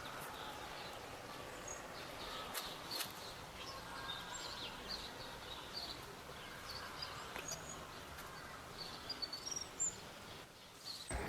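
Faint outdoor ambience: a steady low hiss with scattered short, high bird chirps and a few soft clicks.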